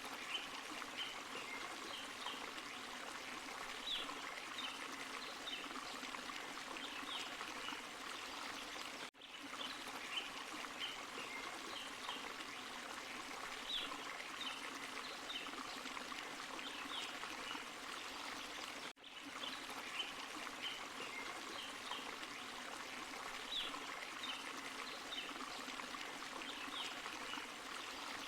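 Small forest waterfall and stream running steadily, with light splashes and trickles on top. The sound briefly dips out about every ten seconds.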